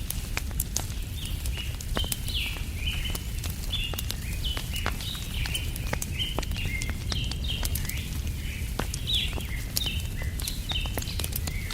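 Small songbirds chirping over and over in quick short notes, over a wood fire crackling with sharp, irregular pops and a steady low rumble underneath.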